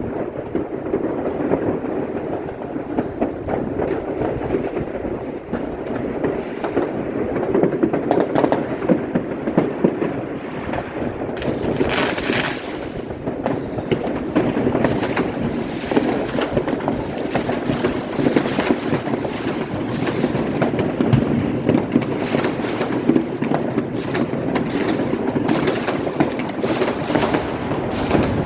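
Continuous fireworks and firecrackers going off in many places at once: a dense crackle of bangs and pops with no pause, growing more frequent in the second half.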